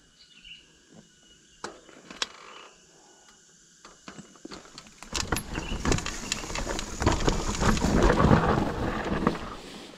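Mountain bike on a rough trail: a few scattered clicks, then from about halfway a loud rattling rush of tyres and frame over rough ground lasting about four seconds.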